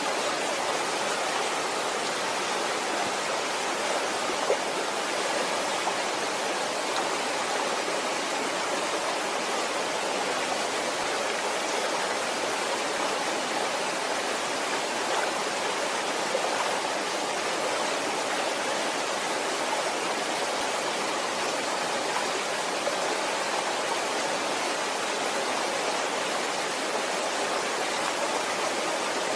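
Waterfall: falling water rushing steadily and evenly, with a few faint splashes.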